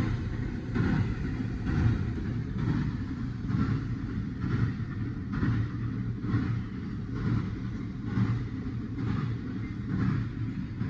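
Freight train running past with a steady low rumble and a regular beat a little faster than once a second.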